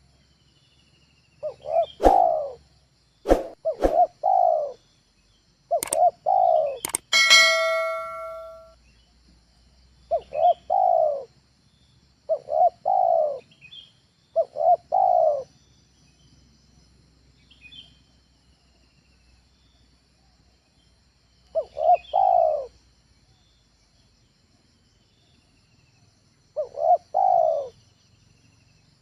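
Spotted dove (tekukur) cooing, about eight short phrases of several notes each at irregular gaps. A few sharp clicks fall in the first seven seconds, and a brief metallic ring sounds about seven seconds in.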